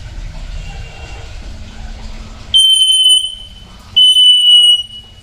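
Hill myna whistling: two loud, steady, high pure whistles of under a second each, about a second and a half apart.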